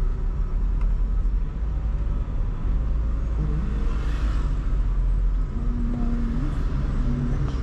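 Steady low rumble of a car driving through city traffic: engine and tyre-on-road noise, with the hiss of surrounding traffic above it.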